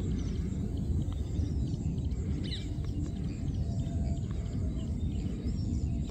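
Small birds chirping faintly over a steady low rumble, with one clearer chirp about halfway through.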